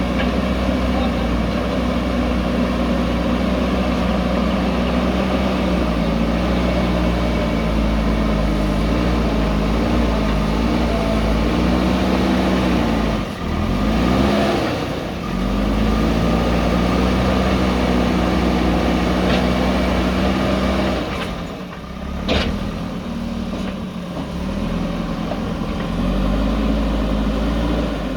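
JCB backhoe loader's diesel engine running under working load, its pitch rising and falling as it works, with two brief drops in engine speed and a single short knock about 22 seconds in.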